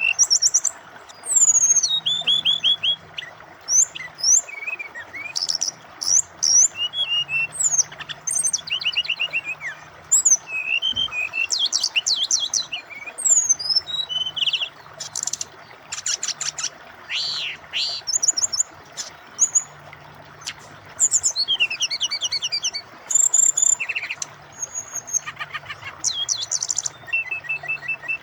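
Brown-chested jungle flycatcher (SRDC) singing a rapid, varied song of chirps, trills and sweeping whistles, phrase after phrase with short gaps, over a steady background of flowing water.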